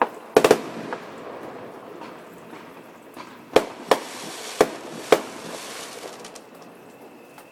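Fireworks going off: a quick cluster of bangs about half a second in, then four more single bangs spaced roughly half a second apart in the middle, each trailing off in a short echo.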